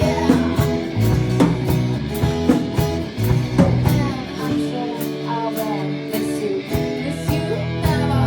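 A rock band plays an instrumental passage with no vocals: guitar lines with short pitch slides over bass, and drums keeping a steady cymbal beat.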